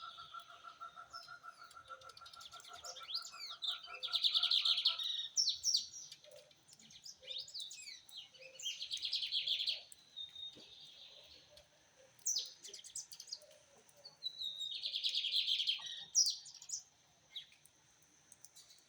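A seedeater singing: four bouts of fast, buzzy, trilled song with quick chirps in between. A steady whistle-like tone runs through the first five seconds and then stops.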